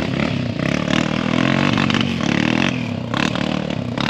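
Small dirt bike and ATV engines revving up and down as they race around a dirt track, with short bursts of rougher noise over the engine note several times.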